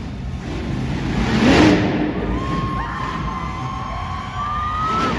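A vehicle engine rumbles under a cheering crowd, with a loud surge of noise about a second and a half in. In the second half a long, steady high tone is held, rising slightly near the end.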